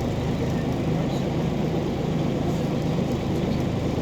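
Diesel engine of a Scania OmniCity city bus running steadily, a low even hum with road and cabin noise.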